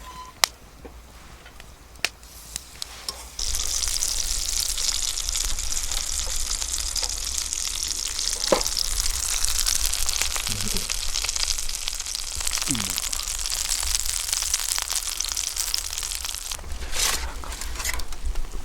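Food sizzling in a hot cast-iron skillet, the frying starting suddenly about three seconds in and holding steady, after a few sharp clicks.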